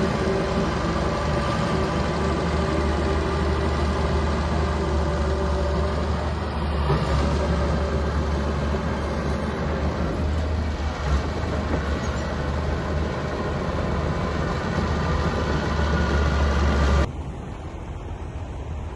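Small bulldozer's diesel engine running steadily and loudly. Near the end it cuts off suddenly to a quieter rumble with wind noise.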